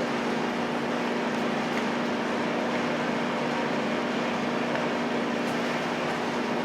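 Steady mechanical hum with a constant low drone, even and unchanging throughout.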